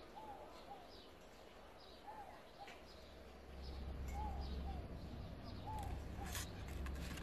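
Faint bird chirping: short chirps repeating every second or so, with a low rumble coming in about halfway through.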